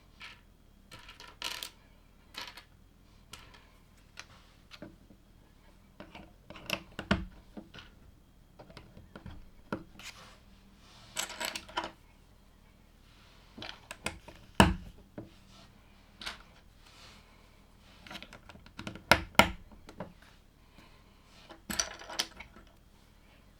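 LEGO pieces being handled and pressed together: irregular sharp plastic clicks and short clatters in small clusters, the loudest click a little past the middle.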